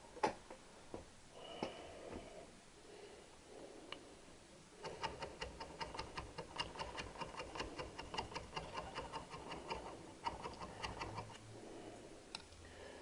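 A few light clicks, then from about five seconds in a fast run of short scraping strokes, about four a second: carbon deposits being scraped off the back of a Triumph 650 engine valve.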